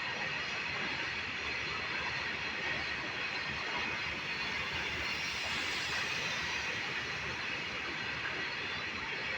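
Train running on the rails: a steady, even wheel-and-track noise, without a clear clickety-clack rhythm.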